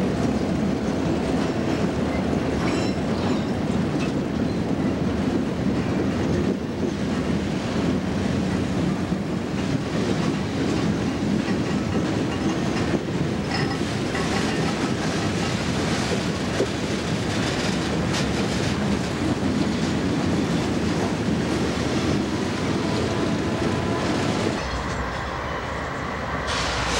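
Freight cars of a Norfolk Southern train, steel coil cars among them, rolling past at close range: a steady rumble of wheels on rail with clickety-clack over the joints. Near the end the sound turns to the lower, steadier rumble of an approaching diesel locomotive.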